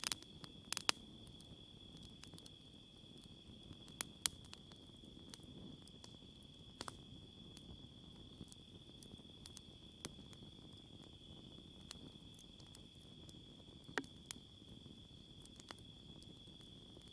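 Wood campfire giving off sharp, irregular pops and crackles, a few at a time, over a steady high-pitched chorus of night insects.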